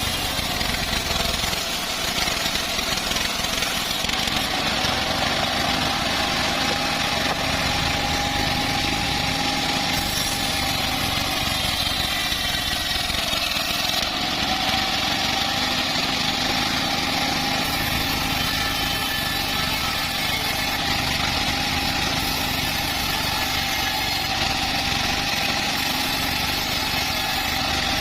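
Homemade engine-driven bandsaw mill running steadily through a large teak log: an even engine drone with a faint whine that wavers slightly in pitch.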